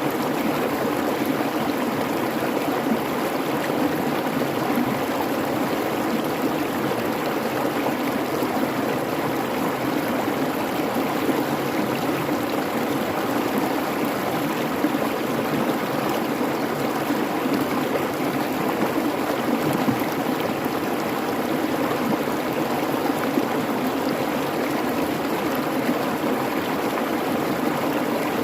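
Creek babbling steadily, a continuous even rush of flowing water.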